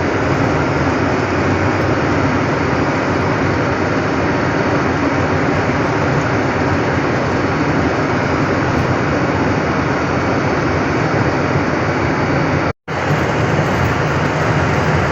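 Steady drone of a truck's engine and road noise while driving, broken by a brief drop to silence about thirteen seconds in.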